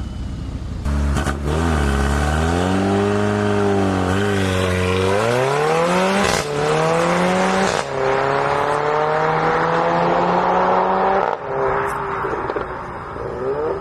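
Mercedes-AMG A45 W177's turbocharged four-cylinder engine through an aftermarket CGW exhaust, revving and then accelerating hard: the note climbs in pitch through three pulls, broken by sharp cracks at two upshifts, then drops away as the throttle is lifted near the end.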